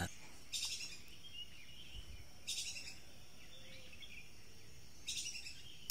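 Three short, high-pitched trilled chirps from a small forest bird, about two and a half seconds apart, over quiet forest background.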